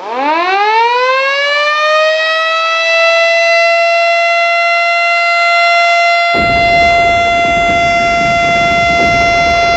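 Civil defence siren winding up over about two seconds and then holding one steady, loud tone: the siren sounded for the moment of the Indonesian independence proclamation commemoration. A low rushing noise joins under it about six seconds in.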